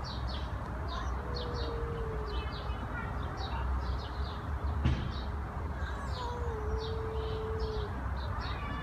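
Small birds chirping over and over, short high chirps two or three times a second, over a low steady background hum. A faint, long, wavering tone is heard twice, about a second in and again around six seconds, and there is a single sharp click near the middle.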